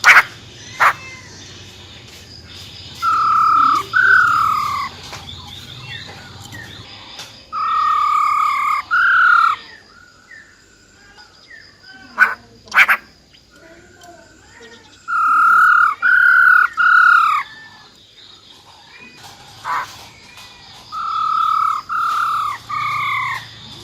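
Female black-throated laughingthrush calling in four bouts of two or three loud, slurred notes each, with a few sharp clicks in between.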